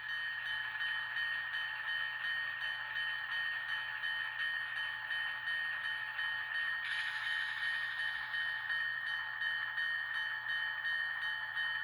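Sound decoder in an N scale diesel switcher playing its diesel engine and ringing bell through the locomotive's small speaker, the bell striking in an even rhythm. About seven seconds in, a hiss joins it.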